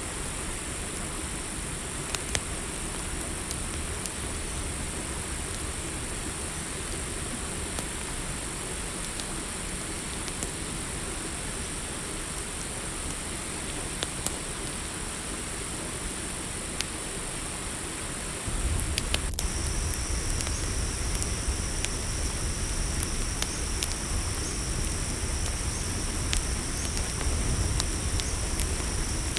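Campfire crackling with scattered sharp pops over a steady high chirring of night insects such as crickets. About two-thirds of the way in, a second, lower insect trill joins and a low rumble grows louder.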